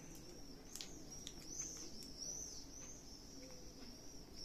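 Faint, high, wavering chirping that goes on throughout, with a few soft clicks.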